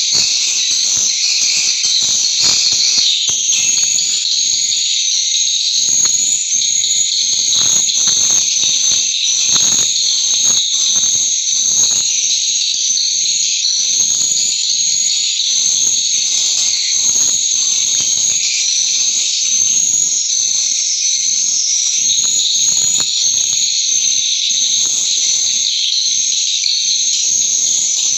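Swiftlets twittering: a loud, continuous, high-pitched chirping, with a fast run of short clicks underneath.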